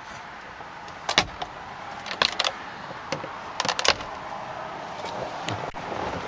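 Short clicks and clatters from handling the car's fittings, coming in four separate bursts a second or so apart.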